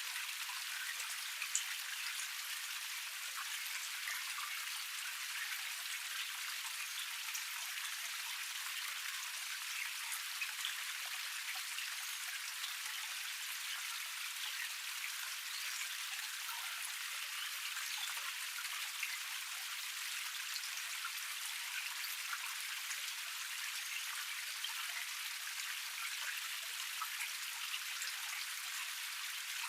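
Small forest waterfall cascade: water splashing and trickling over rocks in a steady, even rush, speckled with many small drip-like splashes.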